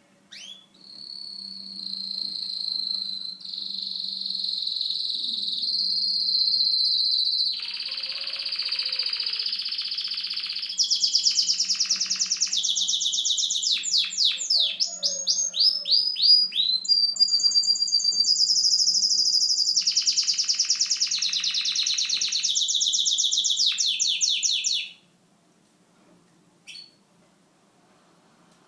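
Canary singing a long, unbroken song of rapid trills and rolled repeated notes, with a run of quick falling whistles in the middle. The song stops suddenly a few seconds before the end, leaving only a couple of short chirps.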